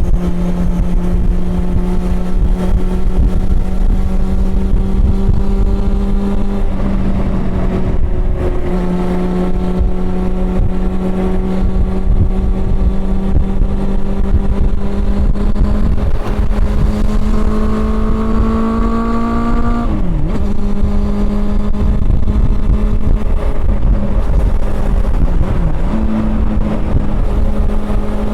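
Honda CB400 Super Four's inline-four engine running under way at fairly steady revs, dipping briefly about a quarter of the way in. Past the middle it climbs in pitch for a few seconds, then drops sharply and settles again, with two smaller rev dips near the end.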